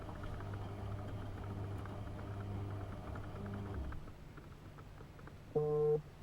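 AEG Öko-Lavamat 72520 washing machine's drum motor running with a steady hum and light rattling clicks, which stops almost four seconds in. Near the end comes a short, loud tone of under half a second, the loudest sound here.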